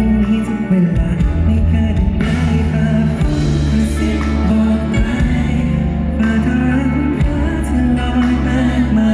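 Live performance of a Thai pop song: a male singer's voice over band accompaniment, played loud through a concert sound system.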